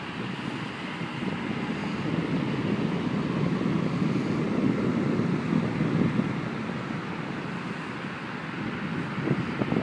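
Electric fan blowing air onto the microphone: a steady rushing, buffeting noise that swells a little in the middle.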